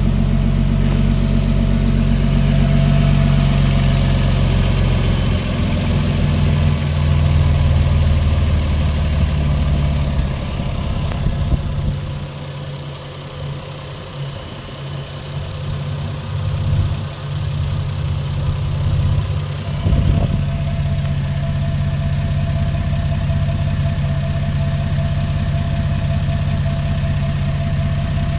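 1993 Toyota Supra's 2JZ inline-six idling after a cold start, with no tick. The idle steps down over the first ten seconds or so as it settles. A single sharp knock comes about two-thirds of the way through, then the steady idle returns.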